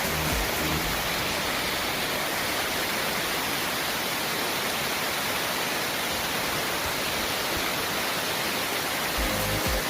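Steady rush of water falling from a large waterfall, an even, dense hiss. Background music with a beat comes back near the end.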